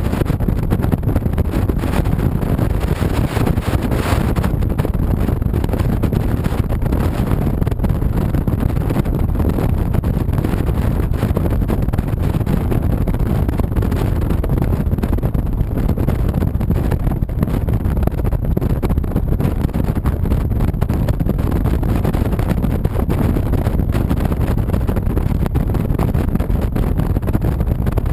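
Honda VTX 1300C V-twin motorcycle riding steadily, its engine and road noise mixed with heavy wind rush on the microphone. There is a brief louder hiss about four seconds in.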